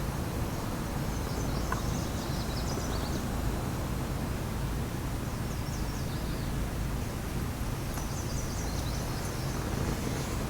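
Birds chirping now and then over a steady low background rumble.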